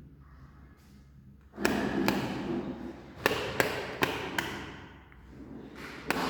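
A series of irregular sharp taps and knocks, starting about a second and a half in.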